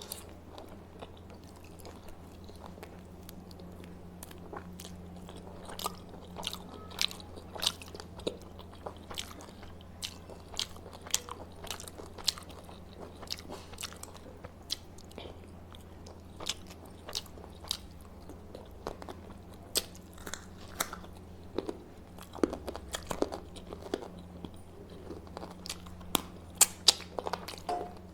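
A person chewing and biting food close to the microphone: short wet clicks and crunches at irregular intervals, coming more often in the last few seconds, over a steady low hum.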